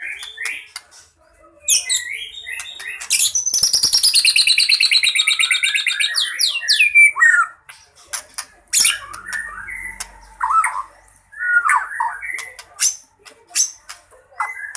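White-rumped shama singing an aggressive fighting song packed with mimicked calls: a varied string of sharp clicks, chirps and whistled slurs, with a long fast rattling run of repeated notes from about three to seven seconds in.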